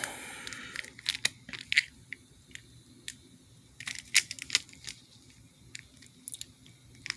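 Scattered clicks and crinkles of a 45 RPM vinyl single in its plastic packaging cover being handled.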